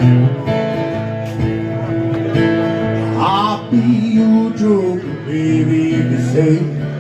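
Rockabilly band music with electric guitar to the fore, held notes and some bent guitar or vocal lines.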